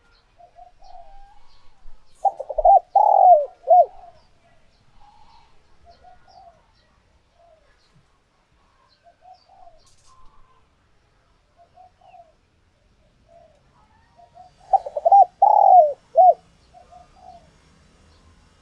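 Spotted dove cooing: two loud phrases of several low, rounded coos, one about two seconds in and one near the end, with softer coos between them. It is a tame decoy dove's song, the kind played to provoke wild doves into answering.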